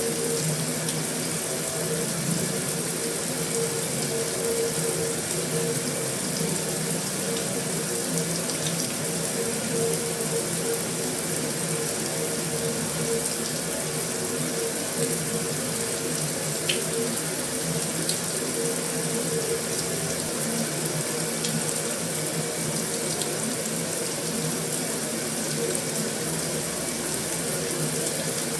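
Heavy rain falling steadily on a metal roof, an even hiss with a few sharper drip ticks around the middle.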